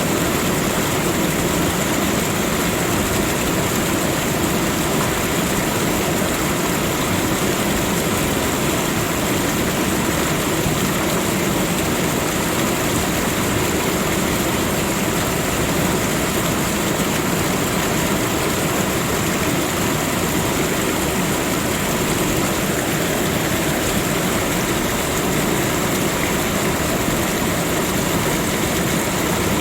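Steady rushing water, an even unbroken wash of sound that keeps the same level throughout.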